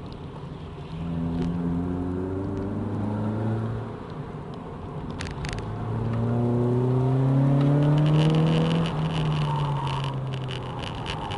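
Honda Civic EJ9's four-cylinder engine, heard from inside the cabin, driven hard on a track. The revs climb for a few seconds and drop off about four seconds in. After a couple of sharp clicks, a longer, louder climb peaks around eight seconds in, then the revs fall away.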